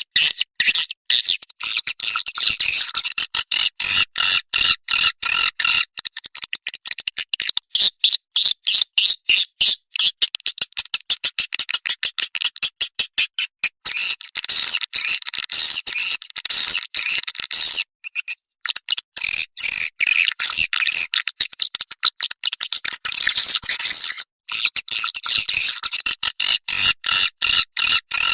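Swiftlet lure call: a recording of edible-nest swiftlets twittering and chattering in dense, rapid, high-pitched pulses, with a few short breaks.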